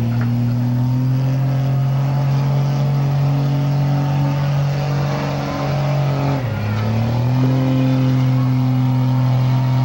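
Diesel pickup truck engine running at high revs under heavy load while pulling a sled. Its pitch sags briefly about two-thirds of the way through, then climbs back and holds.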